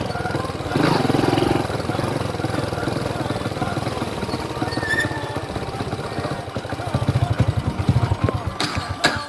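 Motorcycle engine running while being ridden, its firing beats growing more distinct near the end.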